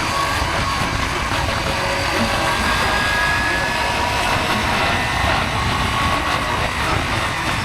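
Motorcycle riding at speed: a steady engine drone under wind rushing over the microphone, with a faint whine above.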